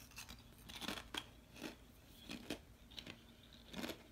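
Faint, irregular crunching of a thin plantain chip being bitten and chewed, several crunches a second or less apart.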